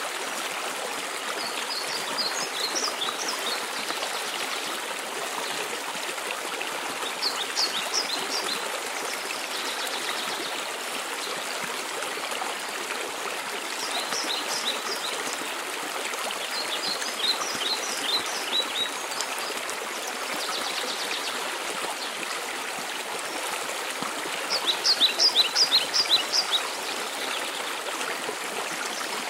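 Waterfall's steady rush of water, with a songbird singing short phrases of quick high notes five times; the last phrase, near the end, is the loudest.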